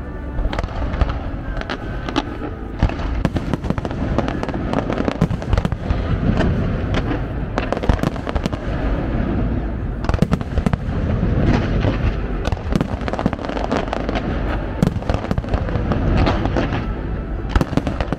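Fireworks display: aerial shells bursting in a dense run of sharp bangs and crackles, several a second, over a continuous low rumble.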